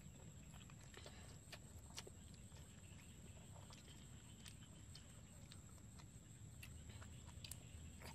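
Faint chewing and lip smacks of a person eating squid: scattered soft clicks over a low rumble, near silence overall.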